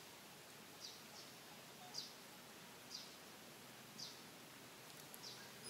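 A bird calling repeatedly: short, high chirps falling in pitch, about one a second, over faint outdoor background noise.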